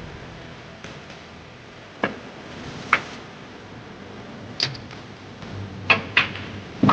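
Sharp clicks of snooker balls being struck and knocking together, about six spread unevenly, two close together near the end, over a low steady background hum.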